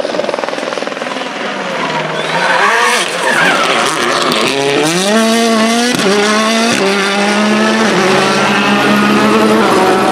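Formula 1 car's 1.6-litre turbocharged V6 hybrid engine accelerating hard, its pitch climbing with quick upshifts about six and seven seconds in, then holding at high revs.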